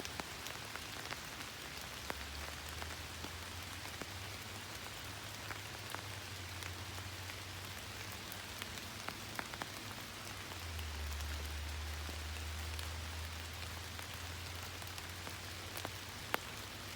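Steady rain falling, with scattered individual drops clicking. A low rumble runs underneath and swells for a few seconds past the middle.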